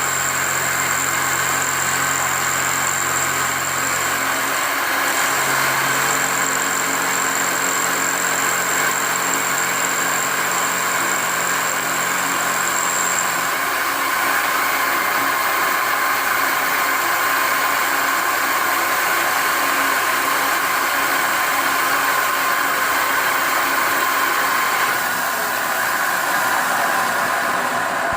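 DIY CNC milling machine running a milling cut: a steady mechanical noise with a high whine that stops about halfway through. The low hum changes pitch about five seconds in and drops away about halfway, and the sound shifts again near the end.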